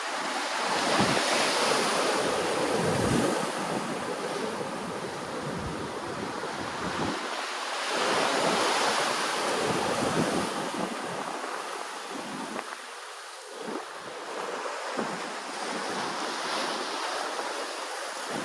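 Ocean waves breaking and washing in as a continuous rush, swelling loudest about a second in and again about eight seconds in, with wind buffeting the microphone.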